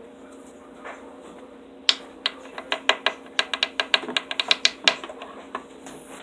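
A quick, irregular run of sharp clicks and taps, starting about two seconds in and lasting about three seconds: a piece of metal stuck tight in an RC trail car's plastic parts being worked loose by hand. A faint steady hum runs underneath.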